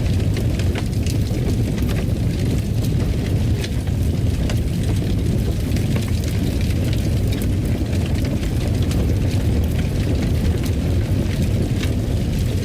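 Fire burning in a fireplace: a steady low roar with frequent small crackles and pops throughout.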